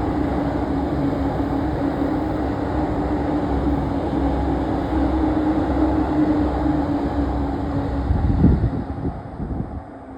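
A train passing close by over a level crossing: a steady loud rolling rumble of wheels on rail with a held tone. About eight seconds in come a few sharp clattering wheel beats as the last cars go by, and then the sound fades away.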